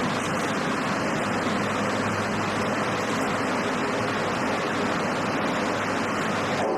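Steady, even rushing noise with no clear pitch or rhythm, cutting off at the very end.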